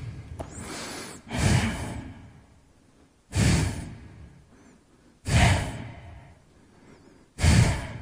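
Highland cow breathing heavily close to the microphone: four loud, short breaths about two seconds apart, each fading away.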